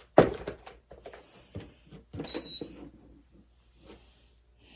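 A sharp knock just after the start, then a run of clicks and rattles, with a second clatter about two seconds in.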